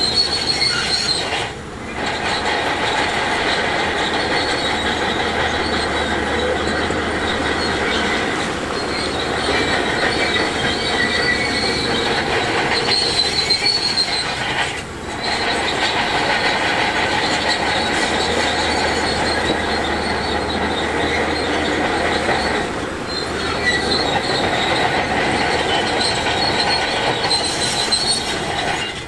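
Heavy earthmoving machinery working continuously, with high metallic squealing typical of a crawler bulldozer's steel tracks over the engine noise. The sound dips briefly three times.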